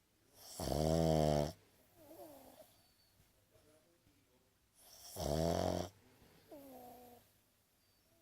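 Boston terrier snoring: two loud, pitched snores about a second long each, some four seconds apart. Each is followed by a fainter whistling note that falls in pitch.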